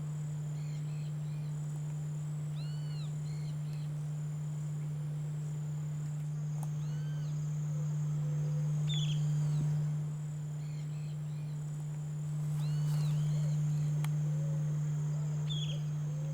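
Outdoor ambience with birds giving short arched call notes every few seconds, and a few brief chirps. A high insect trill pulses along, over a steady low hum that is the loudest thing throughout.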